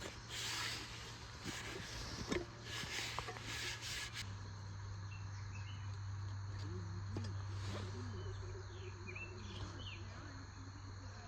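Outdoor nature sounds: insects buzzing in pulses about once a second, then, after an abrupt change about four seconds in, birds chirping briefly over a steady low hum.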